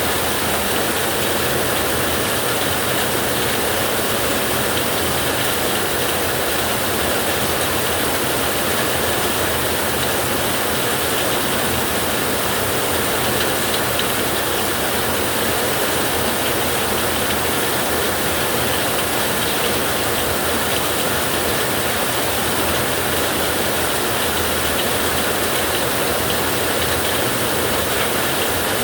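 Steady rain on a metal roof: a dense, even patter of drops that holds without breaks or changes.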